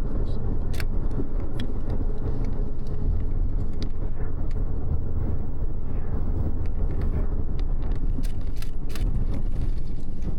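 Steady low rumble of a double-decker bus's engine and tyres on the road, heard from inside the cabin, with scattered light clicks and rattles.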